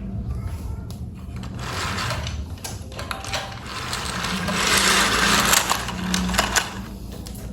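Small electric motor of a battery-powered toy steam train running, a steady low hum with scattered clicks and a hiss that swells in the middle and fades toward the end.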